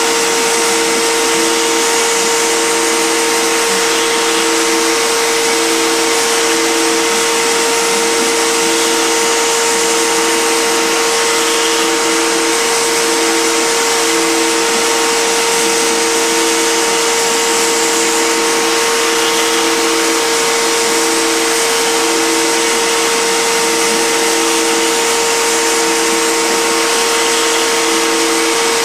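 Fine Line Automation 3x3 CNC machine's spindle running with a steady whine and hiss as it carves foam. Beneath it, the stepper-driven axes hum on and off about once a second as the machine sweeps back and forth at 150 inches per minute.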